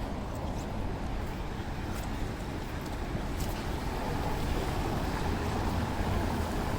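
Rainy city street ambience: a steady low rumble of traffic and wind on the microphone, with a few faint ticks, growing slightly louder toward the end.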